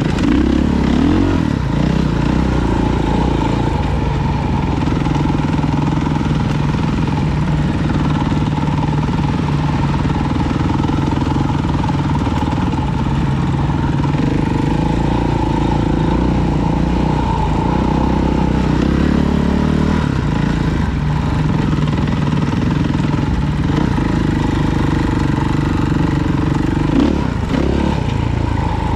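Small off-road vehicle engine running at a fairly steady speed while riding, with only small rises and falls in pitch.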